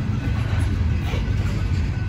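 Freight train tank cars rolling past, a steady low rumble of steel wheels on the rails.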